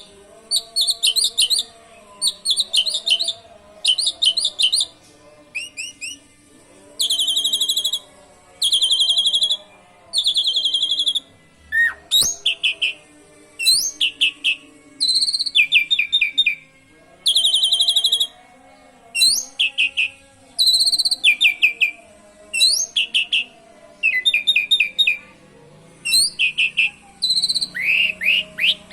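Asian pied starling (jalak suren) singing mimicked canary phrases: rapid high trills, each phrase about a second long, repeated with short pauses.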